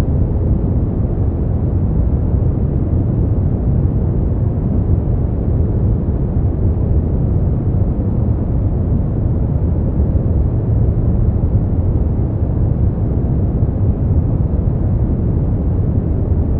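Steady, unbroken noise from a sleep-aid noise track: a deep, even hiss weighted heavily to the bass, with little treble.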